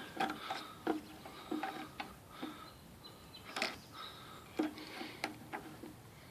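About a dozen irregular small metal clicks and short pings as a small pin on a Briggs and Stratton 4.5 HP lawn mower engine is bent and worked free with a hand tool.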